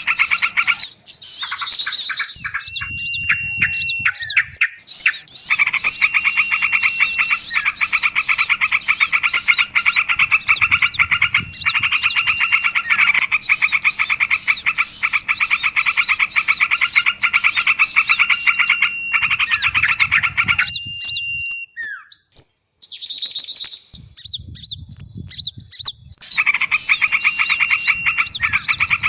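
Mixed small-songbird bird-lure recording: dense, rapid, agitated chattering and ticking calls, several birds at once, with a thin steady whistle that comes and goes several times. The call mix is the kind used to draw small birds such as prinias.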